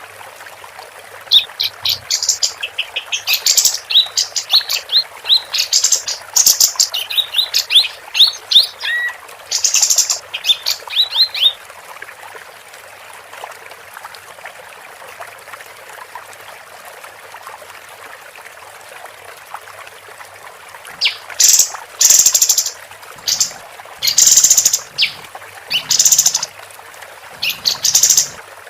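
Female kapas tembak, a bulbul, singing: bursts of quick high chirps and short trills for about twelve seconds, a pause of several seconds with only a faint hiss, then loud sharp call notes again near the end.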